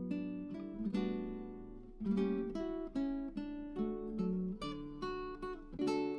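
Background music: acoustic guitar playing plucked notes and chords, with a long ringing note decaying about a second in.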